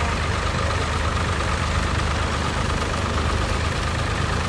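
Tractor diesel engine running steadily at low revs, a constant low hum.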